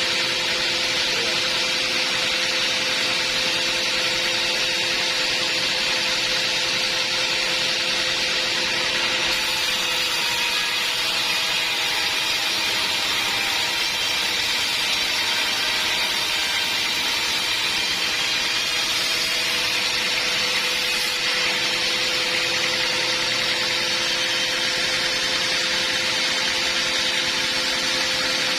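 Sawmill band saw running steadily, with a constant whine over the machine noise and no break.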